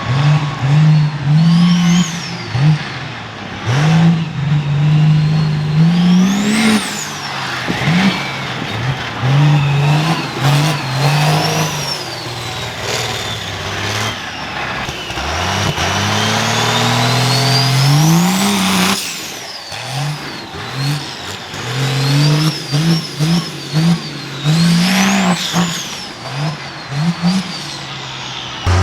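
Cummins diesel monster truck engine revving hard again and again, its pitch climbing and dropping, with a high turbo whistle that rises and falls with each rev.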